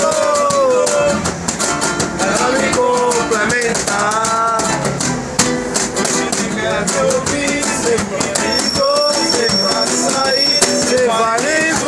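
Live acoustic guitar strummed in a samba rhythm with a shaker keeping steady time, and a voice carrying a wordless melody over them. A thin steady high tone sounds for about two seconds near the end.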